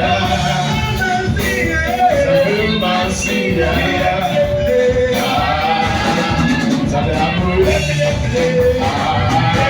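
Live worship music: singing over a full band with bass and drums.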